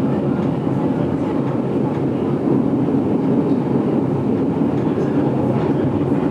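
A GoldenPass Belle Époque passenger carriage running on rails, heard from inside the carriage: a steady rolling rumble of wheels on track with faint scattered clicks.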